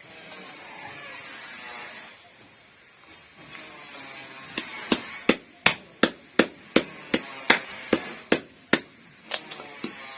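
About a dozen sharp metallic knocks in quick succession, a few a second, as steel wire cable is worked into a bird snare; a softer rustle comes before them.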